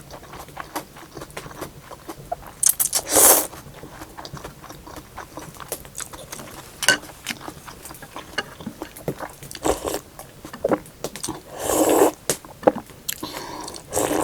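Close-up eating sounds of thukpa noodle soup: a few loud hissy slurps, about three seconds in and again near twelve seconds, with soft chewing and small clicks between them.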